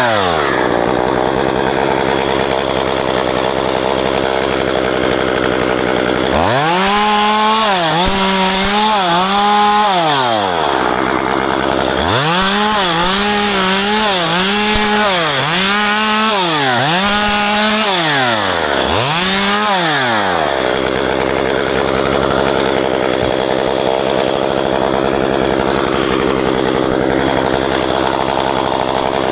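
Two-stroke gas chainsaw idling, then revved up and down in a run of repeated bursts from about six to twenty seconds in while pruning ficus branches, then dropping back to idle.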